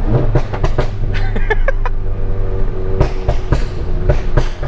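Straight-piped Volkswagen Mk7 Golf GTI with a Stage 2 tune, its exhaust popping and banging: a quick, irregular string of sharp cracks over the steady drone of the turbocharged four-cylinder engine.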